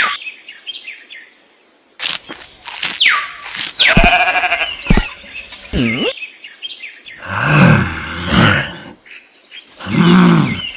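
A string of cut-together sound effects with falling whistle-like sweeps, then two longer farm-animal calls with bending pitch, like bleating, about halfway and near the end.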